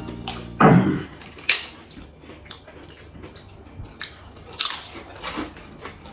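Close-up eating sounds: chewing and biting, with short wet mouth noises coming irregularly, the loudest about half a second in.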